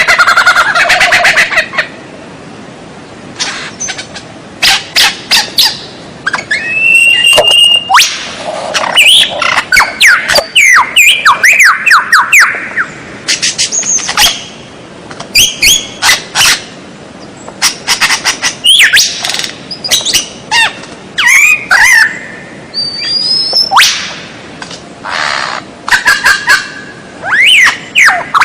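White-rumped shama (murai batu) singing a loud, varied song: quick phrases of sharp clicks and fast whistled glides, separated by short pauses.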